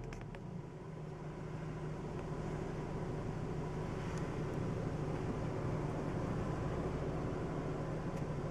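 Car engine running at a steady speed, a low, even hum with a slight rise in level over the first few seconds.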